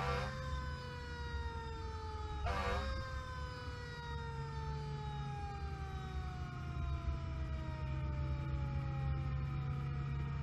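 Emergency apparatus siren winding down, its pitch falling slowly and steadily, with two short loud bursts at the start and about two and a half seconds in, over the steady low rumble of the vehicle.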